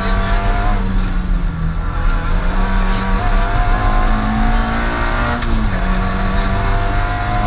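Rally car engine heard from inside the cockpit at speed, revs climbing steadily and dropping sharply about five and a half seconds in before rising again, over constant road and tyre noise.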